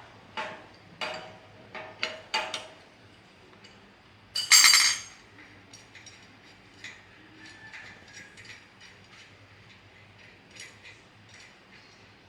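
Metal parts and tools clanking during hand work on a machine: a quick series of clanks and clinks, then one loud ringing metal strike about four and a half seconds in, followed by scattered light ticks and taps.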